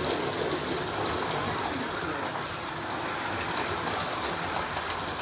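Several Carrera Digital 132 slot cars lapping a plastic track, making a steady whirring rumble of small electric motors and tyres running on the track.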